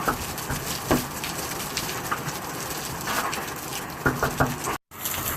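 Dog giving short barks over a steady patter of rain: one at the start, another about a second later, and a quick pair near the end.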